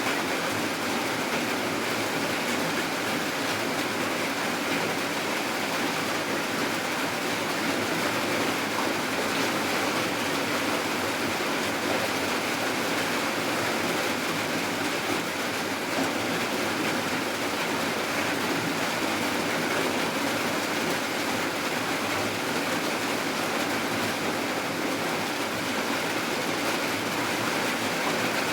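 Steady heavy rainfall, an even, unbroken hiss of rain.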